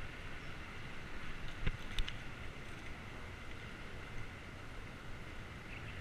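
Steady rush of wind and road noise from a bicycle in motion, with two sharp knocks close together about two seconds in.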